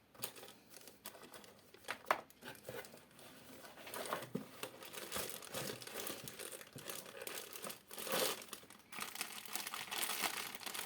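Plastic packaging crinkling and crackling as cooler parts are unwrapped by hand: separate crackles at first, becoming a denser, nearly continuous rustle about four seconds in.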